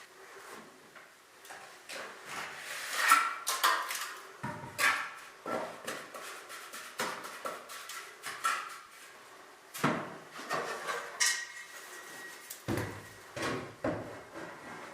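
Irregular knocks, clinks and scrapes of hand masonry work, bricks and tools handled while a gap is filled with brick. The loudest clink comes about three seconds in, with a cluster of heavier knocks near the end.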